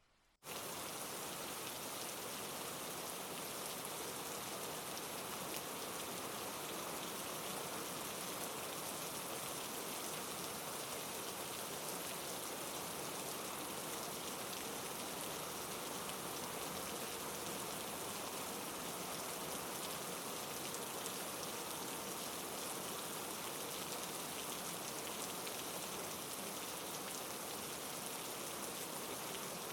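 Heavy rain falling steadily, a dense even hiss of countless drops. It starts abruptly about half a second in.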